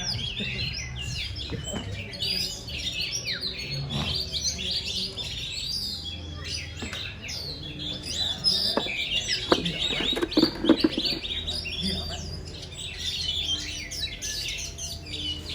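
Oriental magpie-robins singing over one another in a dense, continuous run of quick whistled and chattering phrases. A few sharp clicks come about ten seconds in.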